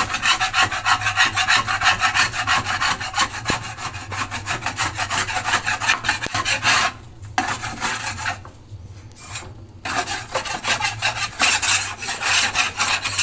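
Fast back-and-forth scrubbing of a dirty washing-machine part with a soapy scouring sponge, about five strokes a second. It pauses briefly about seven seconds in and again for over a second, then resumes.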